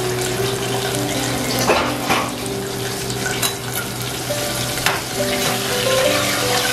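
Chicken breast frying in hot oil in a stainless steel pot, with a steady sizzle. A metal slotted spoon clinks against the pot a few times as the piece is turned and lifted.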